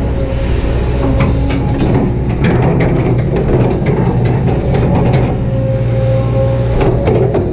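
Kobelco SK200-8 hydraulic excavator working: the diesel engine runs steadily under load with a hydraulic whine that comes and goes, and the bucket and arm give repeated short knocks and clanks, most of them in the first few seconds and again near the end.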